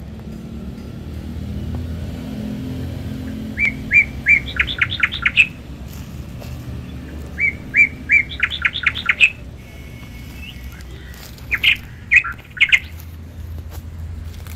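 A bird singing: two similar phrases, each three separate notes followed by a quick run of notes, then a few more notes near the end, over a low steady background rumble.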